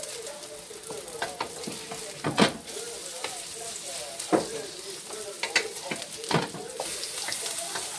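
Burger patties made from banana peels sizzling steadily in hot oil in a nonstick pan. A spatula scrapes and knocks against the pan about five times as the patties are turned, the sharpest scrape about two and a half seconds in.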